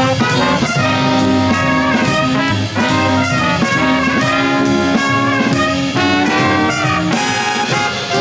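Jazz band playing a swing-style number, brass and saxophones over a steady drum beat.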